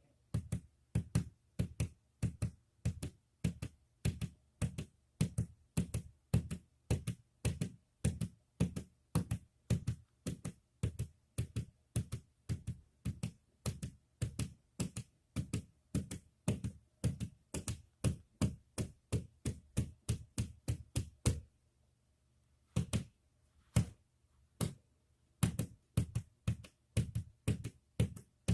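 Repeated sharp taps or knocks, about three a second and often in close pairs, in a steady rhythm that breaks off for about a second and a half three quarters of the way in, then resumes.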